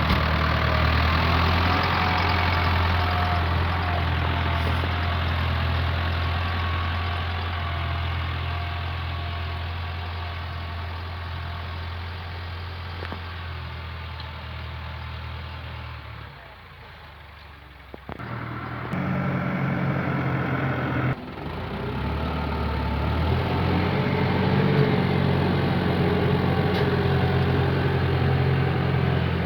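Fendt tractor's diesel engine running steadily. Past the middle the sound drops away for about two seconds, then returns at a different pitch.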